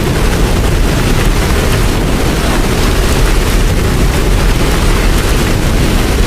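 Heavy steady rain, a dense even hiss of drops with a constant deep rumble underneath.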